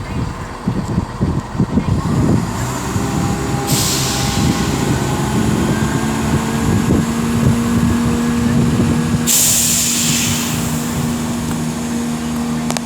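Class 170 Turbostar diesel multiple unit pulling away, its underfloor diesel engines running loud as it accelerates. Two bursts of air hiss come partway through, about four seconds in and again about nine seconds in.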